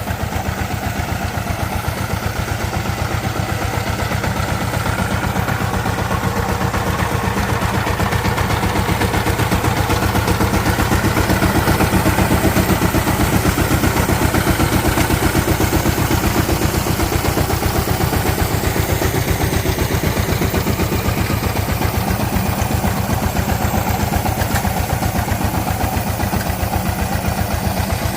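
Power tiller's diesel engine running steadily with rapid, even firing pulses, getting slightly louder through the middle before settling back.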